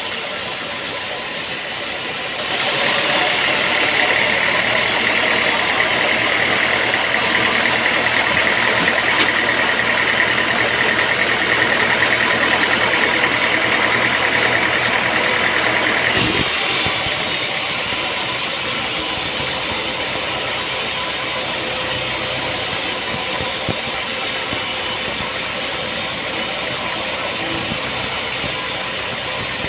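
Sawmill machinery running steadily. From about two seconds in it grows louder with a high whine, which cuts off suddenly about sixteen seconds in, leaving the steady running.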